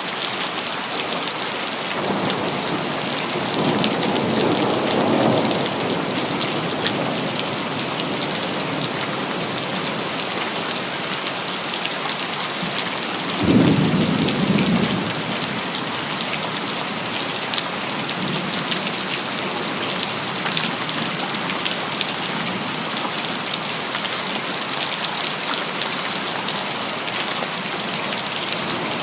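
Steady heavy rain falling, with thunder: a low rumble swells and fades a few seconds in, then a sudden louder clap about halfway through rolls on for a couple of seconds.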